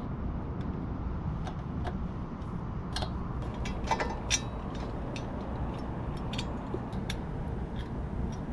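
Scattered light clicks and clinks of hand tools and small metal parts being handled during assembly work on a pit bike, over a steady low hum; the sharpest clicks come around the middle.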